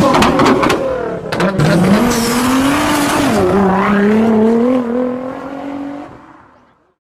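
Vehicle engine revving loudly, its pitch wavering up and down, then fading out near the end.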